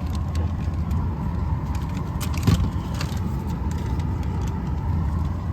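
Steady low rumble and hum of an airliner cabin before takeoff, with the cabin air running, dotted with small clicks and rattles and one sharper knock about two and a half seconds in.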